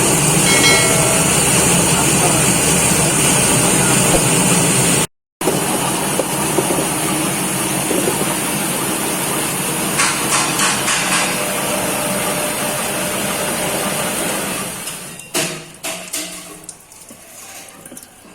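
Fruit and vegetable washing machine running with water: a steady motor and water noise with occasional knocks. It drops out briefly about five seconds in and dies away near the end, with a few last knocks.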